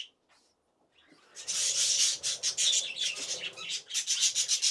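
Budgerigars chirping and chattering in quick succession, starting after about a second and a half of silence.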